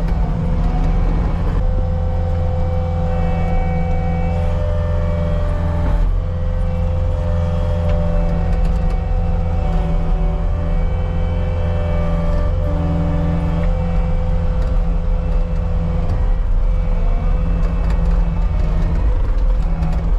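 CAT 279D compact track loader running under load: a steady low diesel drone with higher whines from the drive and hydraulics that shift in pitch every few seconds as it works dirt.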